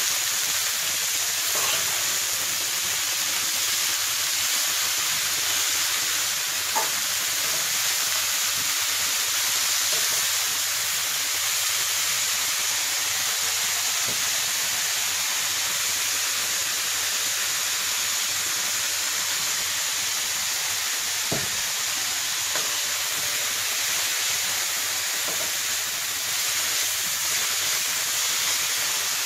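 Chopped leafy greens sizzling with a steady hiss as they are stir-fried in a non-stick frying pan on a gas burner, with a few light taps of the spoon against the pan.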